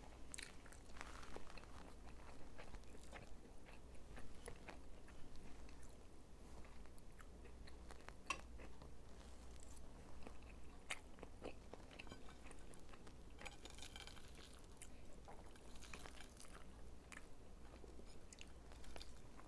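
A person chewing food close to a clip-on microphone: faint, irregular mouth clicks and smacks over a low steady hum.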